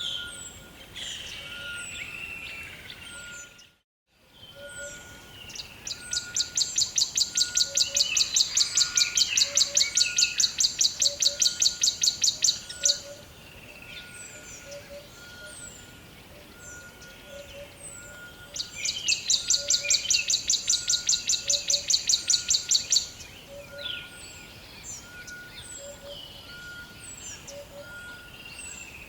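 Rainforest ambience of many birds calling in short chirps, over a short note repeated about once a second. A loud, fast, evenly pulsed trill starts twice, running about six seconds and then about four seconds. The sound cuts out briefly about four seconds in.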